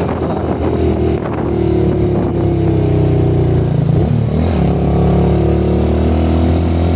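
Yamaha Vega R motorcycle's small four-stroke single-cylinder engine running steadily while riding. Its pitch drops briefly about four seconds in and then picks up again.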